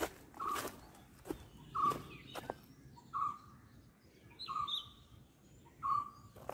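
A bird calling one short note over and over at an even pace, about every second and a half. Footsteps crunch on dry leaves and gravel in between, and another bird chirps briefly partway through.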